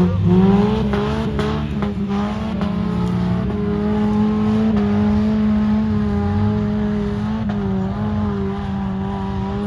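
Off-road 4x4's engine revving up at the start, then held at steady high revs under load, the pitch wavering slightly.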